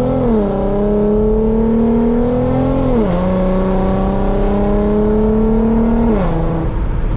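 Infiniti Q50's V6 engine and loud exhaust accelerating through the gears. The engine note climbs steadily, then drops sharply at each upshift, three times about three seconds apart, before settling at a lower steady pitch.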